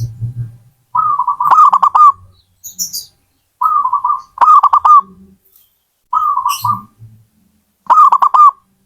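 Zebra dove (perkutut) cooing: four phrases of quick, repeated coo notes, each phrase about a second long, coming about every two seconds.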